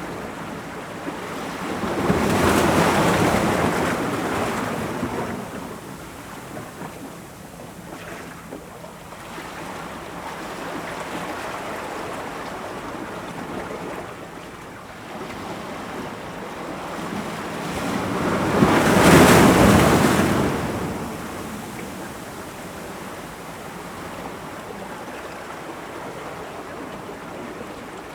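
Ocean waves breaking on rocks over a steady wash of surf, with two big breakers, one a couple of seconds in and a louder one about two-thirds of the way through.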